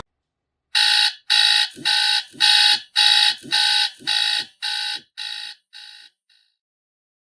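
Electronic alarm beeping: about a dozen even beeps at roughly two a second, fading out over the last second or two.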